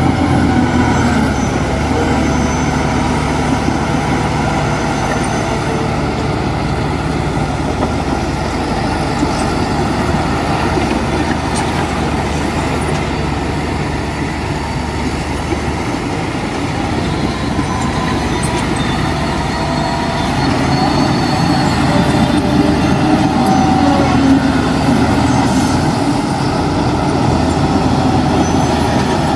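Heavy diesel engine of earthmoving machinery running steadily. Its low hum shifts about halfway through and grows a little louder near the end.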